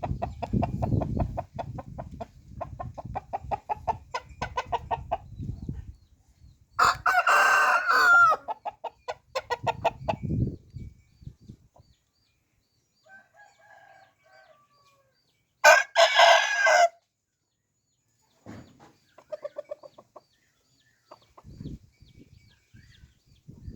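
Chickens clucking in quick runs of short notes, and a rooster crowing loudly twice, about seven seconds in and again about sixteen seconds in, with softer calls between and after.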